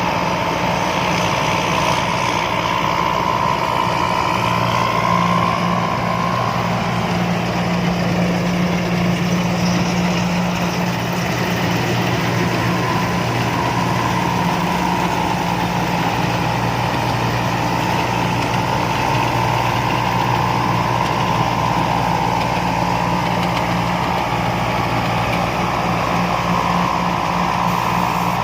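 Combine harvester's engine running steadily, a constant low engine note with a higher whine over it that wavers slightly in pitch.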